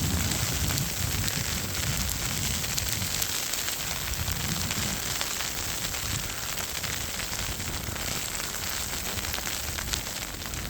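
Wind buffeting the microphone in a snowstorm, a gusty low rumble that is heavier in the first half, over a steady crackling hiss.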